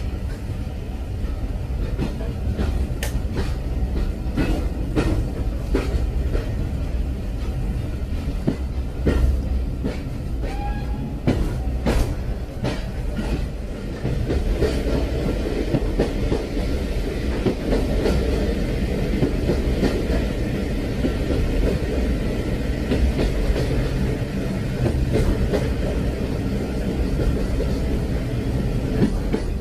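Train running along the rails: a steady low rumble with scattered clicks and knocks from the wheels and carriage. About halfway through the rumble grows a little louder and fuller.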